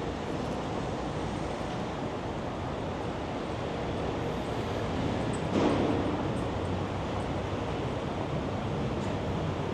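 City street noise: a steady rumble of traffic mixed with wind, swelling briefly louder about halfway through.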